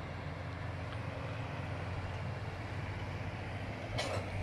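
Diesel farm machinery, a loader or tractor working the hay bales, running steadily as a low, even hum.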